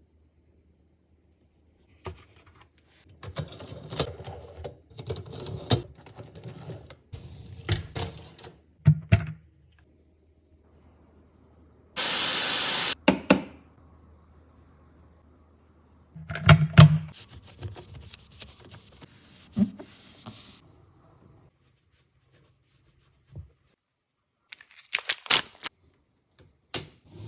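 Clattering, knocking and rattling of dishwasher racks and parts being handled during cleaning, in several bursts, with a loud hiss lasting about a second roughly halfway through.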